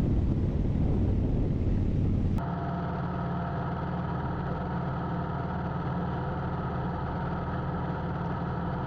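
Motorcycle V-twin engine running at a steady speed on the road, with wind rush. About two seconds in the sound changes abruptly to a quieter, steady, even engine note.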